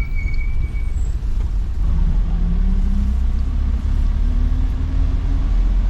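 Road vehicle engine and heavy road rumble while driving, the engine note climbing in pitch as it accelerates from about two seconds in. A short high-pitched squeal sounds in the first second.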